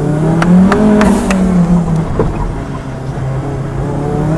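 Kimera EVO37's turbocharged and supercharged engine under hard acceleration, its pitch stepping up and down, with a few sharp clicks in the first second and a half. It eases off briefly near the middle, then pulls again.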